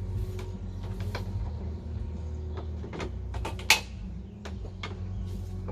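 Scattered clicks and knocks of hand tools and metal parts being handled during bumper removal work, with one sharp clack a little past halfway, over a steady low hum.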